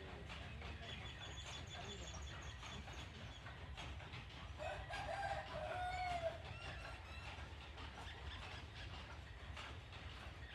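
A rooster crows once, a call of about a second and a half about halfway through that falls in pitch at its end, over a steady wash of running water.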